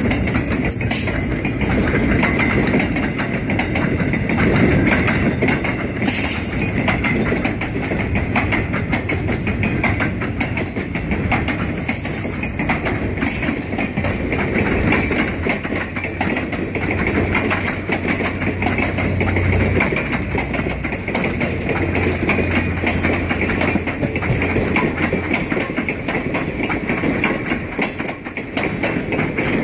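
Circus train's flatcars and passenger cars rolling past at close range: a steady rumble and clatter of steel wheels on the rails. A low steady hum joins about halfway through.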